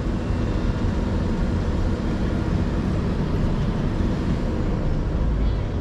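Volvo EC220EL excavator's diesel engine running steadily under work.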